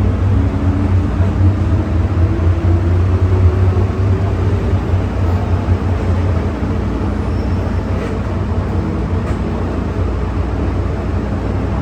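MTR M-Train electric multiple unit running between stations: a steady low rumble with a thin motor whine rising in pitch over the first few seconds, the sound easing slightly about halfway through.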